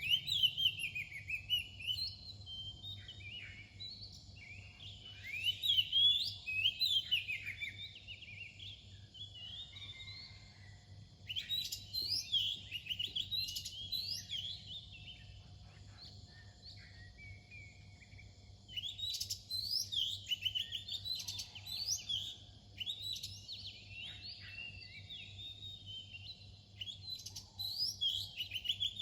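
Oriental magpie-robin singing its dawn song: bursts of varied, quickly gliding whistled phrases a few seconds long, with short pauses between them.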